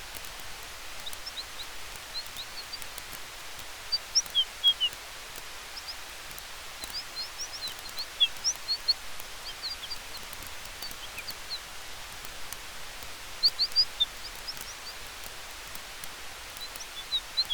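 Forest campfire ambience: a steady hiss of fire and wind with faint crackling ticks. Clusters of short, high chirps come and go over it, loudest about 4 seconds in, around 8 seconds and again near 13 seconds.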